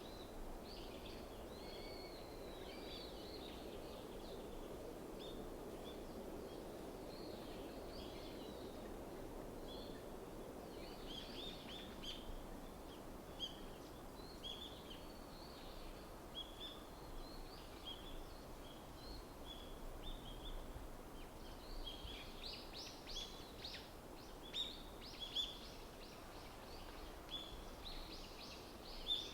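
Small wild birds chirping and calling in a winter forest: many short, high calls, some in quick runs, growing busier toward the end. A low, distant rumble sits underneath, strongest in the first third.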